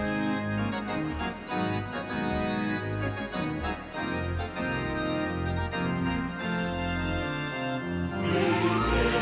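Organ music playing slow, sustained chords, growing louder and fuller about eight seconds in.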